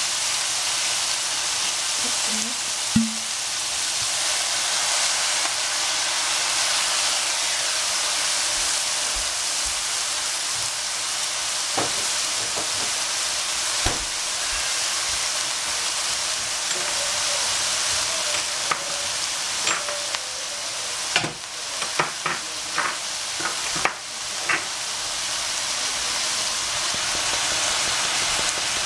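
Broccolini and capsicum sizzling steadily in a hot frying pan, with white wine just poured in. About two-thirds of the way through come a few sharp clicks and knocks.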